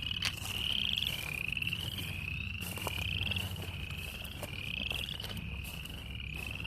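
A chorus of frogs calling from the water: rising, finely pulsed trills, each under a second long, repeating about once a second and overlapping.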